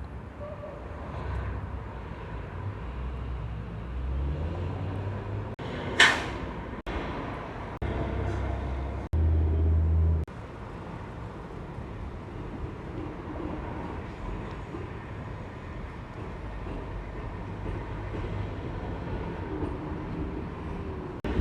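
Trucks passing on a road, with a low engine rumble that swells several times as vehicles go by. About six seconds in there is one short, sharp, loud burst.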